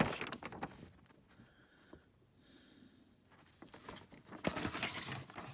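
Plastic Hot Wheels Track Builder parts being handled and fitted together: scattered light clicks, taps and rustling, busier near the end.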